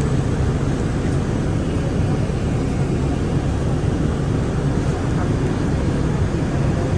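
Inside a moving city bus: steady low engine and road rumble.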